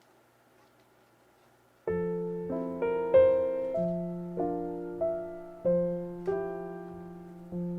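Faint room tone, then about two seconds in, background solo piano music starts suddenly, with gently decaying notes struck at a slow, even pace.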